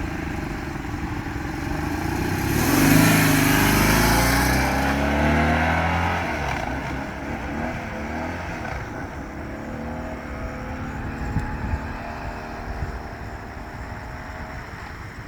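BMW R1200R motorcycle's flat-twin engine running, then accelerating with a rising pitch about two and a half seconds in. It is loudest for a couple of seconds, then eases back to a lower, steadier running sound.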